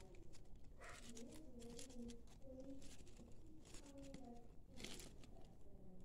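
Faint, low, repeated calls from a pet bird, with a few short rustling and crinkling clicks, the loudest just before a second in and near the end.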